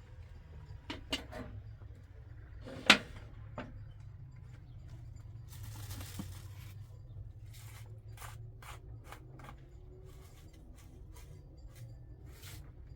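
A series of light clicks and knocks from hard objects being handled, with one sharp knock about three seconds in and a brief rushing noise near the middle, over a steady low hum.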